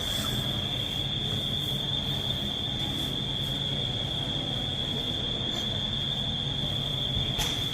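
Steady high-pitched whine over a low, even hum of indoor background noise.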